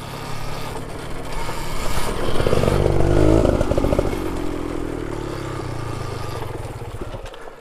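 Dirt bike riding past: its engine note grows louder to about three seconds in, then drops in pitch and fades away.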